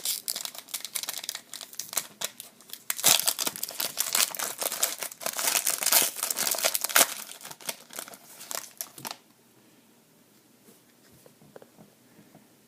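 Trading-card pack wrapper crinkling and tearing as it is ripped open and pulled off, stopping about nine seconds in; then only a few faint clicks.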